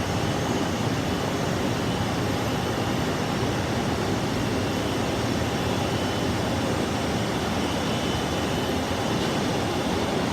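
Jet airliner engines running, a steady loud rushing noise that holds even throughout.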